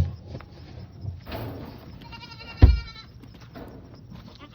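Goats bleating: one wavering, tremulous bleat about two seconds in. A sharp thump at the very start and another loud thump during the bleat.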